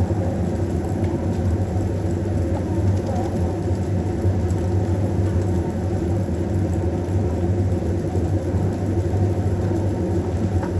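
A steady low rumble with an even hum, unchanging throughout.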